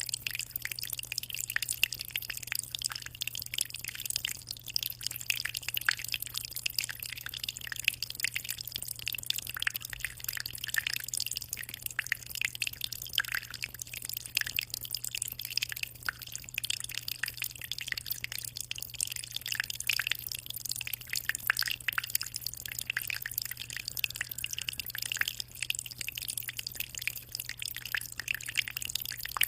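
Aquarium water trickling and splashing steadily: a constant patter of tiny droplets over a steady low hum.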